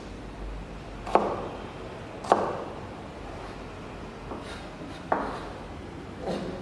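Knife chopping on a cutting board, four sharp knocks at uneven intervals.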